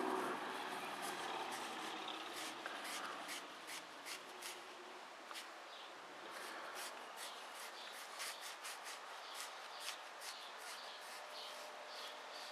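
Hand scrubbing of a Cummins diesel injector part: irregular short scratchy rubbing strokes as carbon and grime are scrubbed off.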